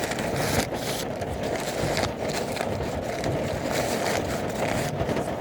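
Heavy thunderstorm rain pouring down: a steady, dense hiss of many small drop impacts.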